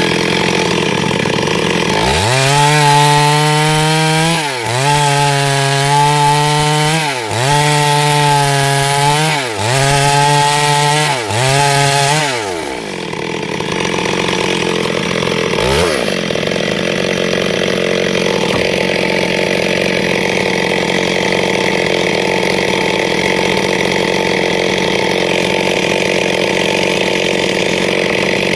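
Chainsaw ripping wood lengthwise into boards. About two seconds in, the engine note comes up strongly, then sags and recovers four times as the chain bites. After about twelve seconds it settles into a steady, rougher run.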